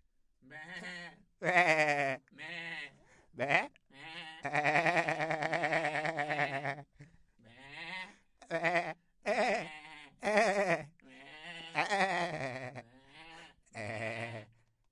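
A string of bleats from goats or sheep, about a dozen separate quavering calls one after another, with one long bleat about four seconds in.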